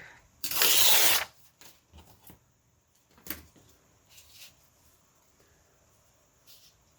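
Paper being handled on a craft table: a loud rush of paper noise lasting under a second about half a second in, then a sharp click and a few soft rustles.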